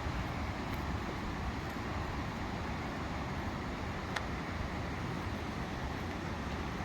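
Steady rushing noise with no clear pitch, and a faint tick about four seconds in.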